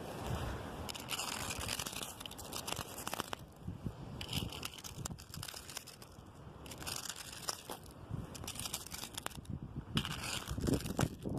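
Gusty wind rushing through tree branches, rising and falling in several gusts, with a crackly rustle and scattered small clicks and a low rumble of wind on the microphone.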